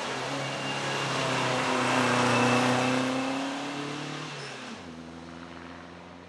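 A vintage racing car's engine under hard acceleration, passing close by: it builds to its loudest about halfway through, drops sharply in pitch about four and a half seconds in, then fades as the car draws away up the hill.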